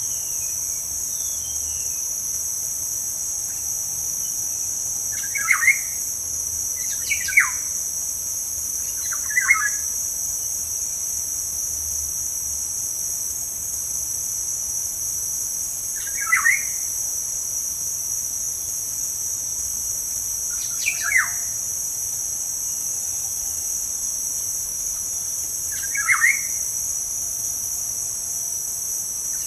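Steady, shrill drone of insects, such as cicadas or crickets. Over it, a bird gives six short calls that fall in pitch, a few seconds apart.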